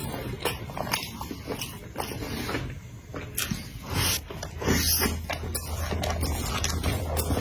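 Close-miked eating: a run of irregular wet chewing and biting clicks.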